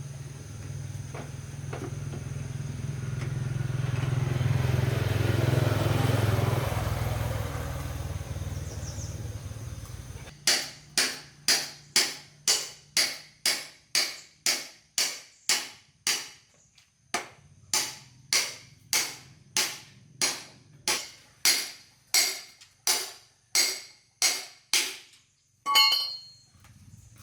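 A hammer striking metal in a steady rhythm, about two ringing blows a second, with a short pause partway through. Before the blows, an engine or motor hum swells and fades over about ten seconds.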